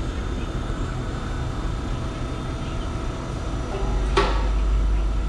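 A car in motion: a steady low rumble of engine and road noise that grows louder about four seconds in, with a short click just after.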